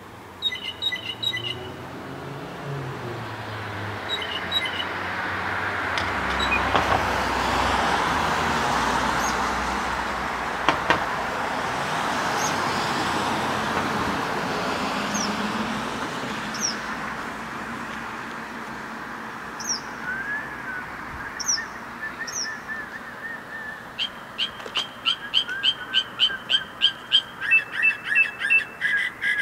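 A bird chirping from a tree at night: scattered chirps and thin downward whistles, then near the end a fast run of loud repeated chirps, about three a second. A vehicle passes in the middle, its noise swelling and fading.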